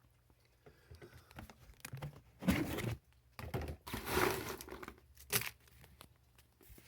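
Rustling and crinkling handling noises in several separate bursts, with a few sharp clicks.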